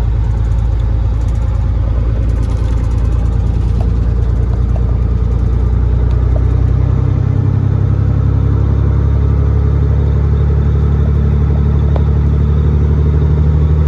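Caterpillar 3406E inline-six diesel of a Freightliner FLD120 semi truck running under way, a steady low drone whose pitch rises a little about seven seconds in as engine speed picks up.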